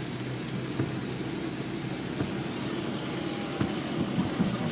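Steady vehicle noise: a low engine hum under a constant rushing sound, with scattered light clicks.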